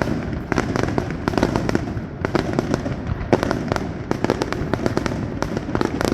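Aerial fireworks going off in a dense barrage: many sharp bangs and cracks every second, overlapping into a continuous low rumble.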